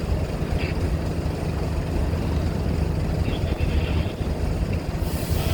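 Steady low engine rumble of heavy vehicles or ferry engines, with a few faint short higher sounds over it and a hiss that comes up near the end.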